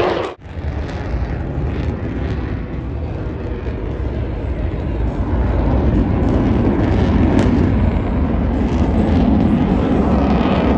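Aircraft engine noise from a plane flying overhead, a steady rushing sound that swells louder about halfway through.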